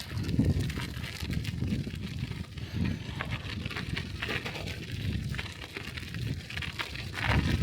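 Bicycle tyres rolling over snow, with a steady dense crackle and crunch and an uneven low rumble that swells and eases.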